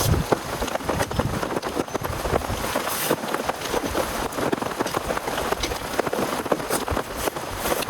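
Heavy rain hitting a surface: a dense, irregular stream of drop impacts over a steady rush, with some heavier low knocks near the start.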